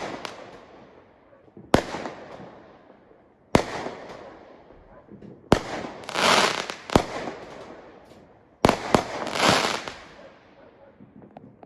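Fireworks going off: about six sharp bangs every couple of seconds, two in quick succession near the end. Some are followed by a loud crackling hiss that swells and fades away.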